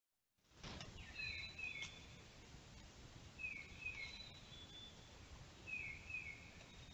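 A moment of dead silence, then a faint steady hiss with a bird calling: a pair of quick down-slurred notes, three times about two seconds apart, with fainter higher notes between.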